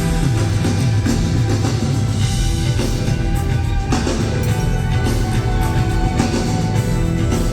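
Live rock band playing at full volume, with drums and bass prominent and no singing.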